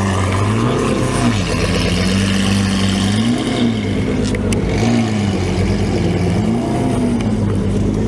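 Lamborghini Aventador's V12 through an aftermarket Frequency Intelligent exhaust, idling with four short rev blips, the pitch rising and falling back each time.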